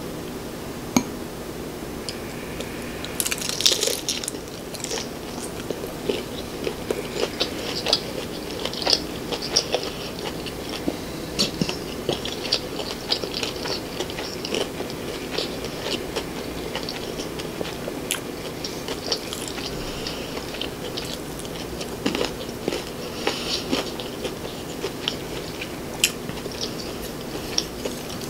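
Close-miked eating: a crunchy bite into a sauce-dipped fried prawn about three seconds in, then steady crunchy, wet chewing full of small crackles.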